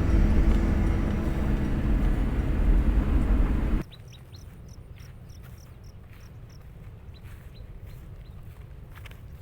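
Background music that stops abruptly about four seconds in, giving way to quiet outdoor ambience in which a bird gives a quick run of short, high chirps.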